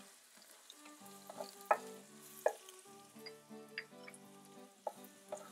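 Julienned ginger, garlic and curry leaves frying in hot oil, a faint sizzle, while a spatula stirs them around the pan, with a few sharp clicks along the way. Soft background music plays throughout.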